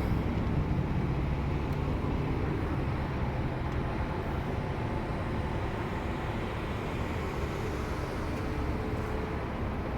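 A vehicle engine running steadily: a low hum under an even wash of noise, with no change in speed.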